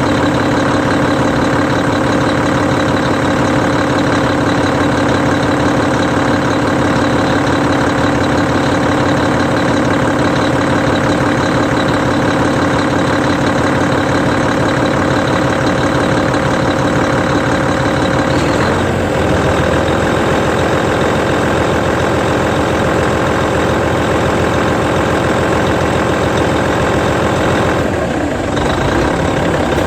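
Hino Selega ADG-RU1ESAA tour bus's E13C 12.9-litre inline-six diesel idling steadily; about two-thirds of the way through the engine note changes as the idle is raised by hand. The note shifts again briefly near the end.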